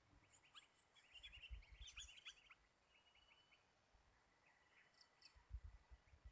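Faint chattering calls of sooty-headed bulbuls (kutilang): quick runs of short chirping notes, busiest in the first two and a half seconds, with a shorter burst near the end. A few low thuds come up under the calls near the start and again near the end.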